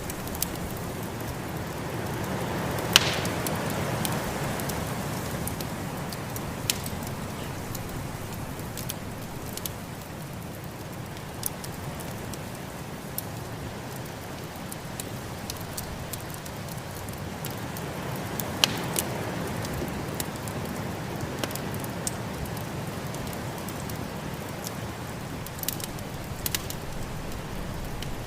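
Wood fire in a fireplace crackling with scattered sharp pops, two of them loud, one about three seconds in and one past the middle, over the steady rush of snowstorm wind that swells twice.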